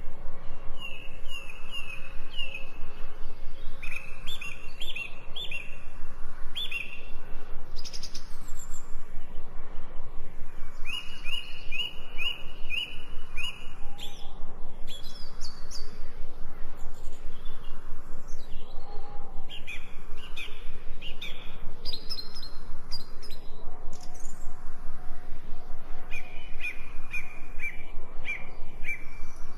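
Songbirds chirping in repeated runs of short, quick notes, with a fast, even pulsing beneath them.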